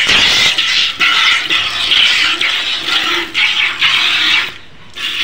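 Milk squirting from a cow's teats into a pail during hand milking: repeated hissing squirts, roughly one a second, with a short pause near the end.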